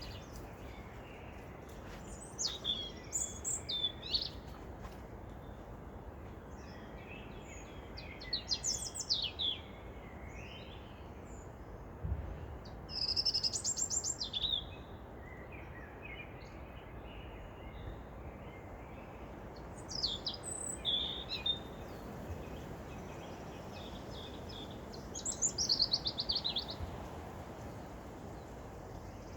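Songbirds singing in short phrases every few seconds, several of them fast trills that fall in pitch, over a steady low background hiss.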